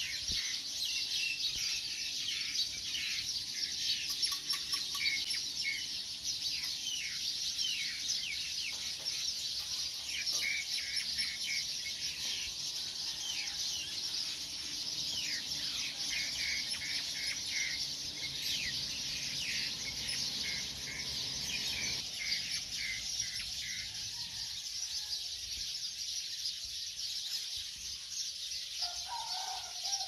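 Many small birds chirping continuously, a dense run of short downward-sweeping chirps, with a brief lower call near the end.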